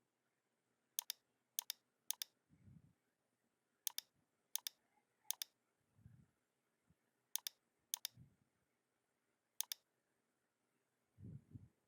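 Computer mouse clicking: about nine sharp, separate clicks at irregular intervals, with a few dull low thuds between them.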